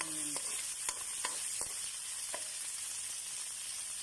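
Chopped garlic and ginger sizzling in hot oil in a wok, with a steady hiss. A spoon stirring the pan clicks and scrapes against it several times in the first couple of seconds.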